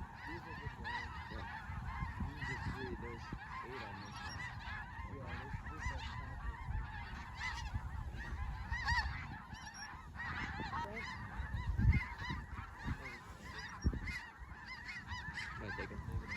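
A large flock of snow geese calling all at once: a dense, unbroken chorus of many overlapping high yelping calls. A brief low thud is heard about twelve seconds in.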